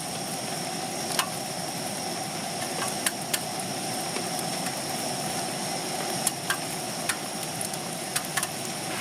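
Portable gas stove burner running with a steady rushing hiss, weak enough that its canister has to be tilted to keep it going. Scattered sharp ticks sound throughout.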